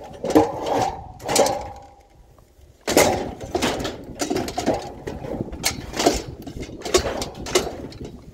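A chair being hauled and loaded by hand: a run of knocks, scrapes and rattles with a ringing edge, a short pause about two seconds in, then more clattering.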